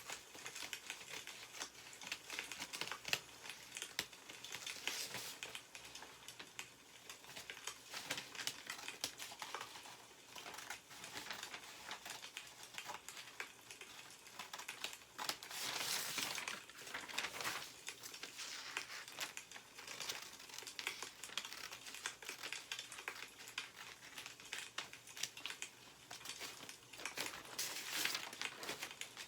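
Newspaper pages rustling and crinkling as they are handled and turned, with a louder rustle about halfway through, over a continual crackle of burning firewood.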